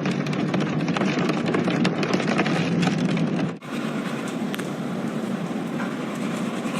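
Hail and heavy rain pelting hard surfaces: a dense patter of many small impacts. About three and a half seconds in it cuts abruptly to another recording with a lighter, slightly quieter patter.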